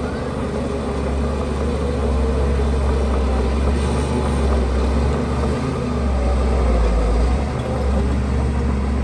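Diesel engine of heavy earthmoving equipment running, a deep continuous rumble that swells and dips slightly.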